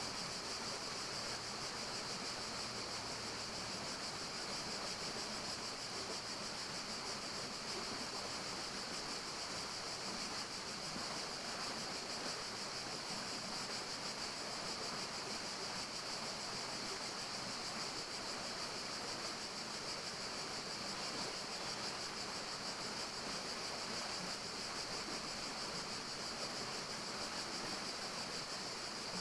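Steady forest ambience: an even, unchanging rushing hiss with a bright high band over it, and no distinct calls or events.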